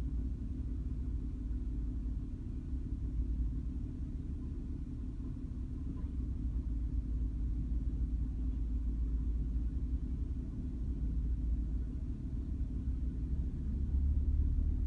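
Diesel-electric locomotive engines running with a steady low rumble, getting a little louder near the end.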